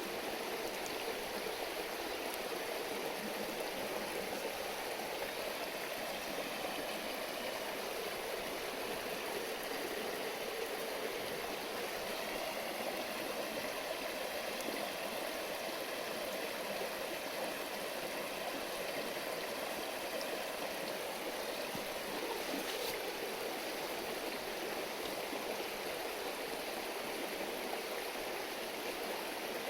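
River babbling over stones, a steady, even rush of water, with one faint click about three-quarters of the way through.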